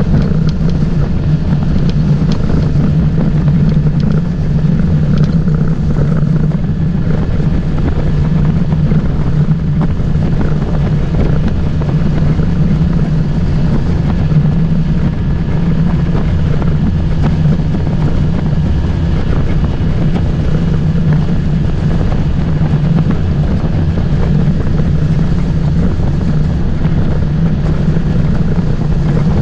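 Motorboat engine running steadily under way, a constant hum over the rush of wind and water, with wind buffeting the microphone.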